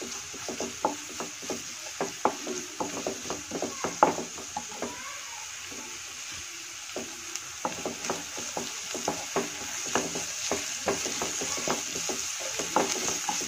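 A wooden spatula is stirring and scraping chopped onions and ginger-garlic paste in butter in a non-stick kadhai. Irregular clicks and taps ride over a steady sizzle as the raw ginger-garlic is fried off.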